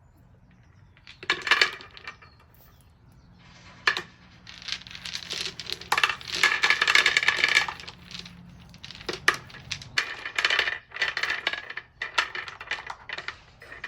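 Small round cobblestones clacking and clinking against one another and the bird bath bowl as they are set back in. The clatter comes in runs: a short one about a second in, a long dense one in the middle, and more toward the end.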